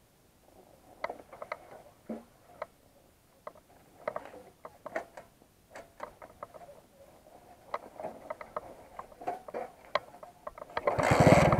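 Light, irregular mechanical clicks and ticks. Near the end a motorcycle engine starts up and runs loudly.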